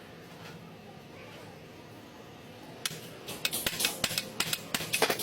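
Faint low hum, then from about three seconds in a quick, irregular run of sharp metallic clicks and taps, as of tools working on metal.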